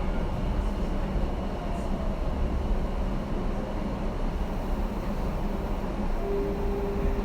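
Running noise of a Tobu 10080 series electric train heard inside the carriage: a steady low rumble of wheels on the rails. A steady single tone comes in about six seconds in.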